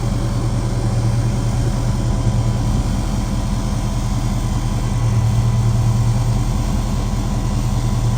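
Pickup truck engine running steadily with a low, even drone.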